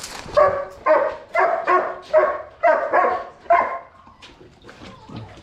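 A dog barking about eight times in quick succession, roughly two barks a second, then stopping about four seconds in.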